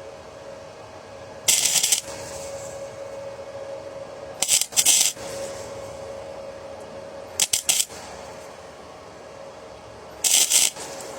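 Welding on exhaust pipe in four short bursts of about half a second each, roughly three seconds apart, as in tack welding, over a steady faint hum.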